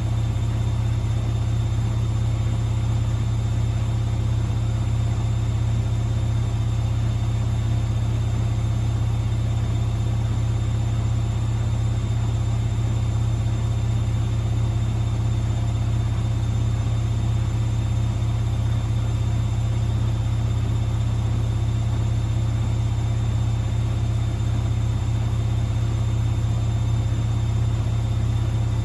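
Privileg washing machine in its spin cycle, the drum spinning at a steady speed with a constant low hum.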